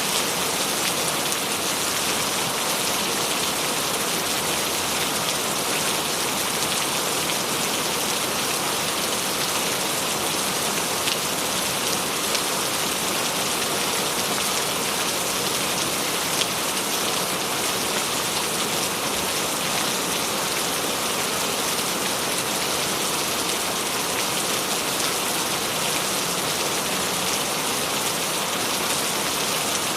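Steady rain falling, a dense even hiss of drops on a surface with fine scattered drop ticks.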